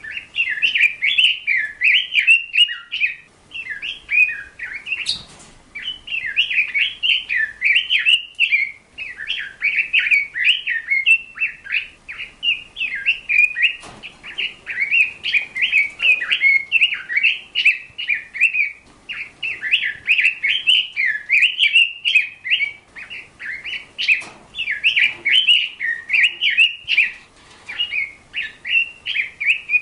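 Bird chirping and twittering in quick, closely packed notes, with hardly a pause.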